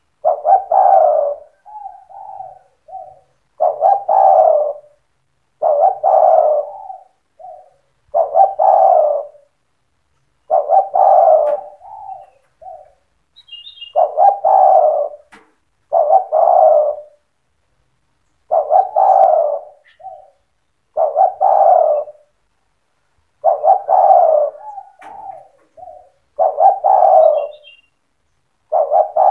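Spotted dove cooing over and over. A loud coo phrase comes about every two to three seconds, each followed by a few shorter, softer notes.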